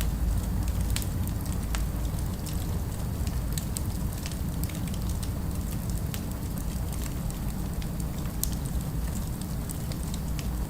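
Crackling wood fire: many irregular sharp pops and snaps over a steady low rumble.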